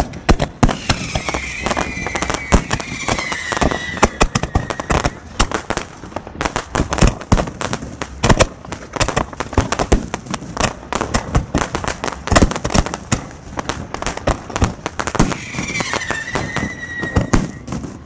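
Fireworks display: a dense, rapid run of bangs and crackles, with a long whistle that sinks slightly in pitch near the start and another near the end.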